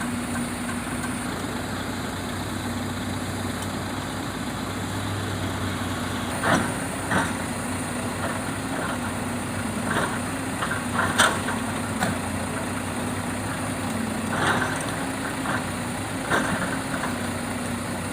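Heavy diesel engine idling steadily, with a handful of sharp knocks and clunks over it, the loudest about eleven seconds in, typical of rubberwood logs being handled and dropped onto a logging truck during loading.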